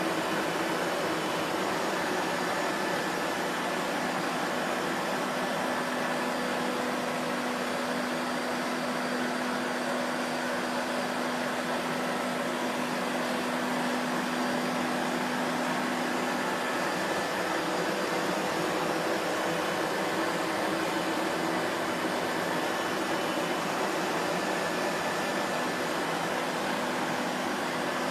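Vacuum cleaner motor running steadily, a constant whooshing hum with a faint whine whose pitch shifts slightly now and then.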